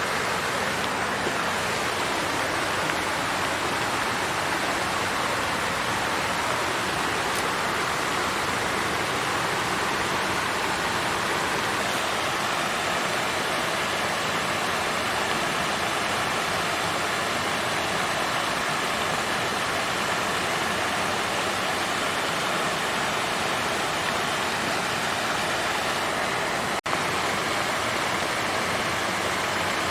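Water fountain splashing and flowing in a steady, even rush, with a momentary dropout near the end.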